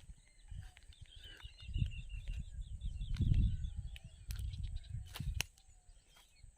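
A bird calling in a quick run of high chirps for a couple of seconds, over low rumbling and thumps that are loudest about halfway through, with a few sharp clicks near the end. A faint steady high tone sits underneath.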